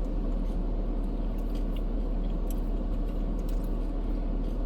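Someone biting into and chewing a crispy egg roll, with small scattered crunchy clicks, over a steady low rumble.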